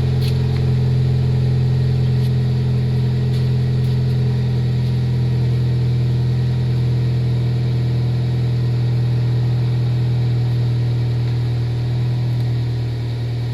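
Honda Civic Hybrid FD3's 1.3-litre four-cylinder idling steadily through an HKS Hi-Power aftermarket exhaust after a cold start, a loud, bassy drone at an even pitch that eases slightly near the end.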